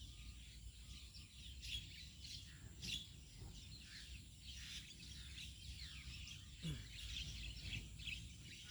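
Wild birds chirping: many short, rapid calls in quick succession over a faint low background hum.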